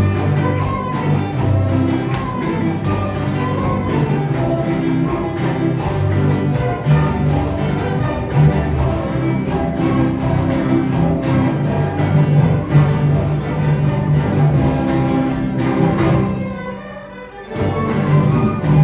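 A school orchestra with bowed strings playing a cumbia with a steady beat. Near the end the music drops away for about a second, then the full ensemble comes back in.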